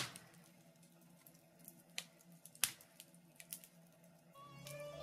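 Wood fire crackling in a fireplace: faint, scattered sharp pops and snaps. Near the end a plucked guitar starts the next song.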